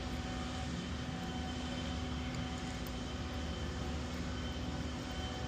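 Steady machine hum with a faint constant tone above it, running evenly with no strikes or changes.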